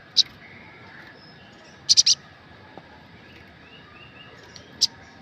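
Olive-backed sunbird (sogok ontong) giving short, sharp, high-pitched calls: one at the start, a quick run of three about two seconds in, and one more near the end, with softer chirps between.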